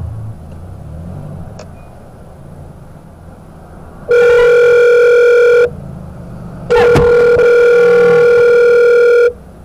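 Low rumble, then two long, loud, steady beeping tones of one pitch: the first about a second and a half long, the second, after a short gap, about two and a half seconds.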